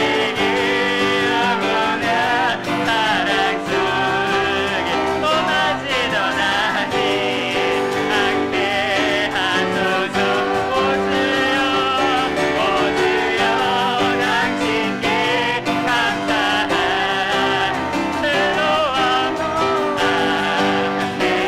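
Worship praise team performing a song: vocalists singing with vibrato over piano accompaniment, continuous and steady.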